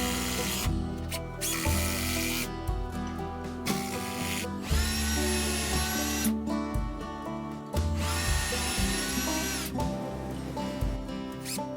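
Power drill running into wooden beams in several bursts, the two longest near the middle each spinning up with a rising whine and then holding steady for a second or two. Background music plays underneath.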